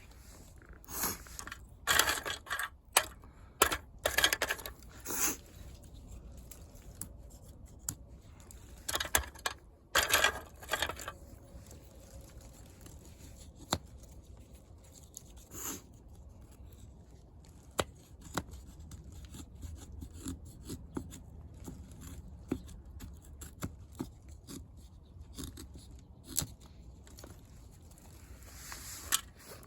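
Short, irregular bursts of scraping and tearing with scattered sharp clicks, from preparing tinder and kindling for a fire.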